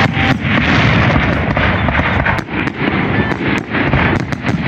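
Fireworks display: aerial shells bursting in quick succession, many sharp bangs over a continuous low rumble.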